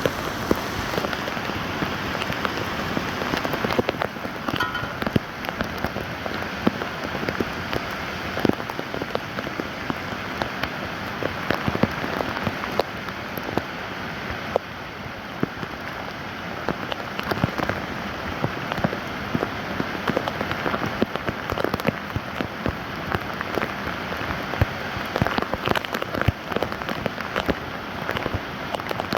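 Steady rain falling, with many individual drops striking the ground and standing water.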